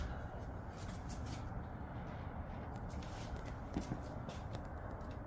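Light scattered clicks and short scrapes of hand work on a Chevy 350 V8, with the oil pan being pulled off, over a steady low background rumble.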